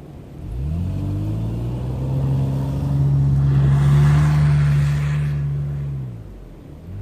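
2002 Nissan Xterra SE's engine revving up about half a second in and held at steady revs under load pushing through deep snow, easing off near the end, with a rushing noise for a couple of seconds in the middle.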